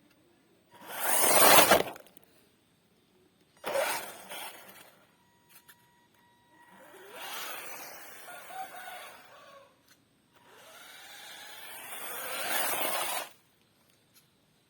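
Radio-controlled drift car making four passes, each a burst of tyre and motor noise. The first, about a second in, is the loudest, and the last two are longer, about three seconds each.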